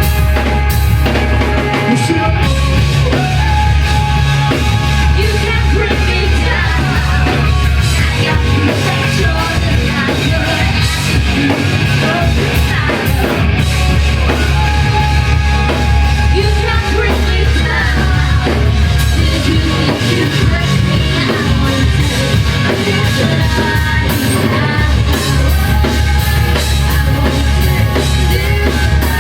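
Live rock band playing loud, distorted guitars, bass and drum kit with a yelled vocal, heard through a heavily saturated recording with a booming low end.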